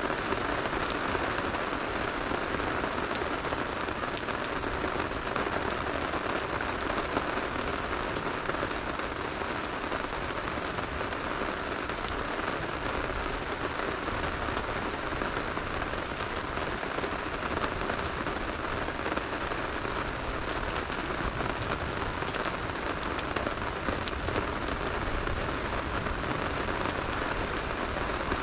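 Steady rain falling, a continuous even hiss, with a wood campfire crackling: scattered sharp pops throughout.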